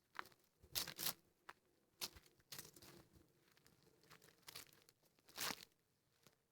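Footsteps crunching through dry leaves and brush on a woodland trail: irregular steps, the loudest about a second in and again near the end.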